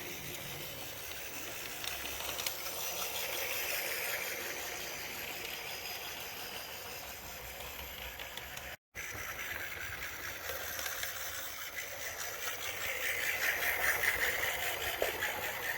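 Battery-powered Lego HO-scale switcher locomotive running on HO track: its small electric motor and geared drive whir with a light rattle of wheels on rail, growing louder twice as it comes closer. The sound cuts out briefly about nine seconds in.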